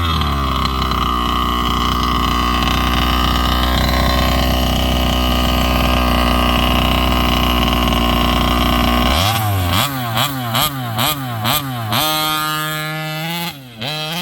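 70cc two-stroke petrol engine of a large-scale RC car running hard at steady high revs, then, about nine seconds in, revved up and dropped back several times in quick succession as the throttle is blipped, with a short steady stretch before the last few revs.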